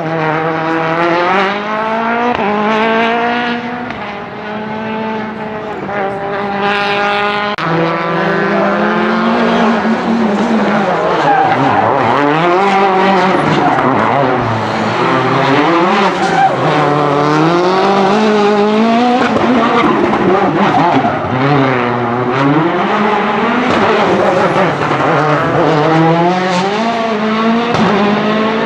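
Citroën DS3 WRC rally car's turbocharged 1.6-litre four-cylinder engine at full throttle, climbing in pitch through quick upshifts about every two seconds. Further on, the revs rise and fall repeatedly as the car brakes and accelerates through a run of corners.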